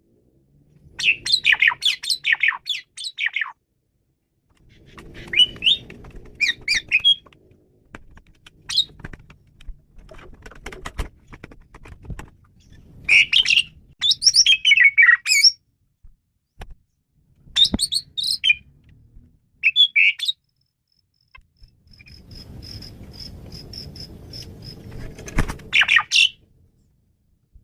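Male Asian pied starling (jalak suren) singing a varied song: short bursts of whistles, squeaky chatter and harsh notes, separated by brief pauses. Late on comes a run of rapid repeated high notes.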